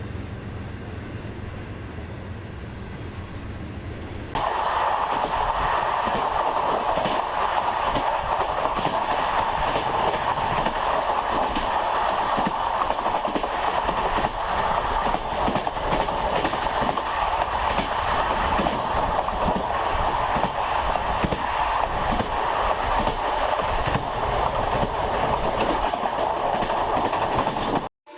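Train running along the track, its wheels clattering over the rails. It opens with a quieter steady low rumble, then about four seconds in the train noise comes in much louder, with a strong steady rail hum over the clatter.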